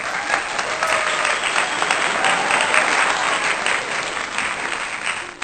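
Dense clapping applause, loud and even, starting and cutting off abruptly.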